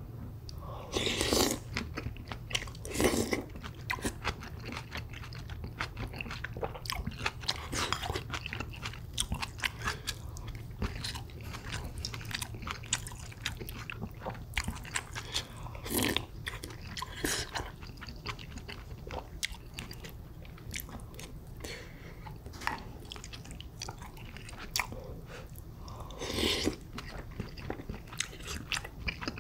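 A person chewing and biting pork kimchi stew and rice: many small wet mouth clicks and crunches, with a few louder bites.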